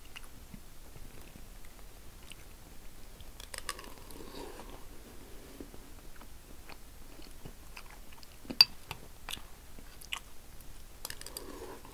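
A man chewing a mouthful of noodles with meat, with a metal spoon clinking and scraping in a ceramic bowl as he scoops more; one louder, sharp clink comes about eight and a half seconds in.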